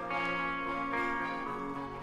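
Instrumental introduction of a band's studio recording: guitar chords ringing over bass, with no vocals yet. The recording is thin, from a low-budget studio session.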